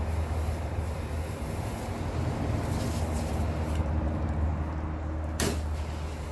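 A steady low engine drone, with one sharp knock about five and a half seconds in.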